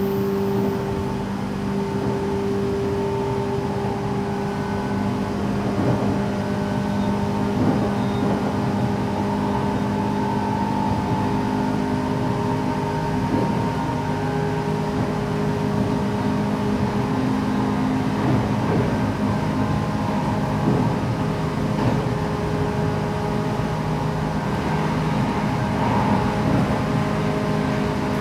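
Running sound of a 117 series electric train heard inside the passenger car: a steady hum and whine from the traction motors and running gear over rolling wheel noise, with occasional knocks from the wheels on the track.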